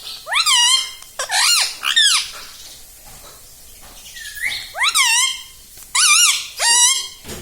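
Indian ringneck parrot calling: six loud, high calls that each sweep up and then fall, in two groups of three with a short pause between.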